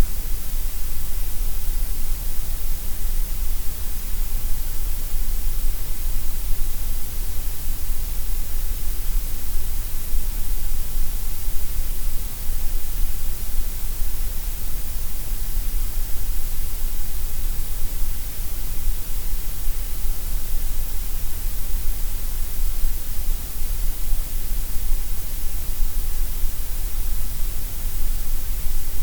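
Gray noise: a steady, unchanging synthetic hiss, weighted so that the deep bass and the high treble are stronger than the middle.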